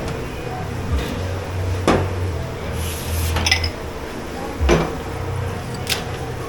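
Crockery and glassware clinking and knocking as dishes are handled in a commercial dish pit, with a few sharp knocks and a brief hiss about three seconds in, over a low steady hum.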